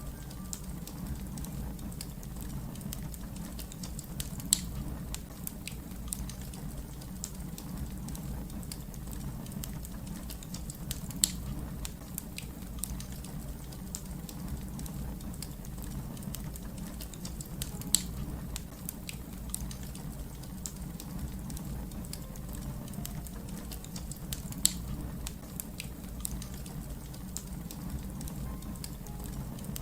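Wood fire burning with a steady low rumble and many small scattered crackles, with a sharper, louder pop about every six or seven seconds.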